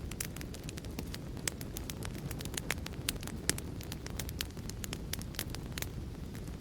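Fire crackling: a steady low roar with frequent sharp, irregular pops and snaps.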